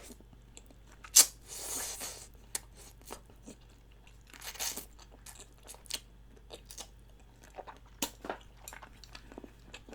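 A person chewing food close to the microphone, with crunches and wet mouth clicks, and one sharp crack about a second in.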